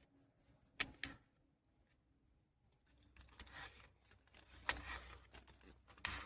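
Faint, scattered handling sounds as a cucumber is dealt with: two short clicks about a second in, then a few brief scraping rustles.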